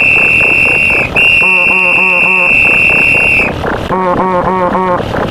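Referee whistle sound effect: a long shrill blast that cuts off about a second in, then a second blast of about two seconds. Under it, a rapid pitched chatter of layered sound effects repeats about five times a second.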